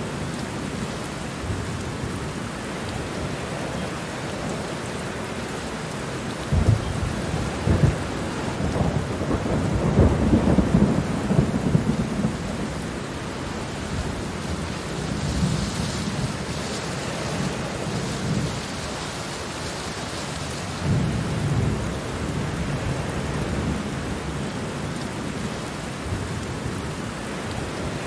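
Steady rain falling, with low rumbles of thunder swelling up about six seconds in, most strongly around ten seconds in, and again briefly about twenty-one seconds in.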